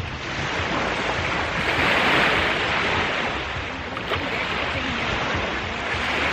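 Ocean surf: waves breaking and washing in the shallows, a steady rushing noise that swells about two seconds in.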